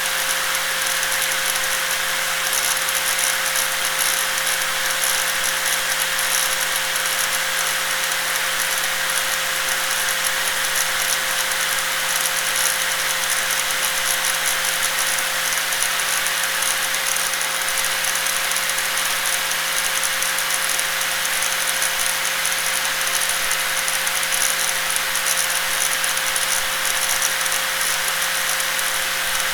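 Electric angle grinder running continuously at a steady speed: a constant whine over a high hiss, with no change in pitch or level.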